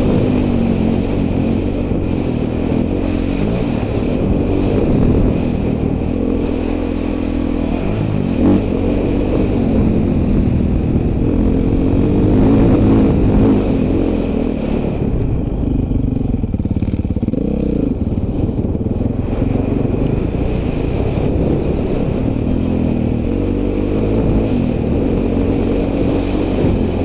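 Dirt bike engine revving up and down as it is ridden off-road, the pitch rising and falling with the throttle, with a single sharp knock about eight seconds in.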